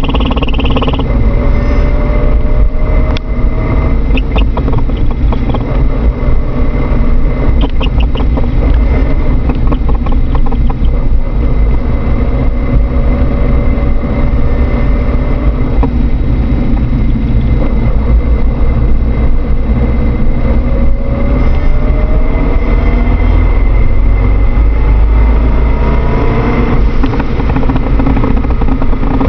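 Vehicle running with a loud noise from the transmission area, steady throughout, with faint whines that slowly rise in pitch several times.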